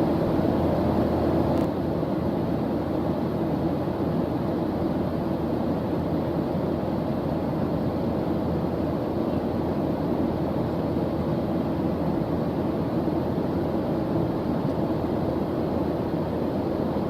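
A steady white-noise background track, deep and even, heavy in the low end, with a small drop in level about two seconds in.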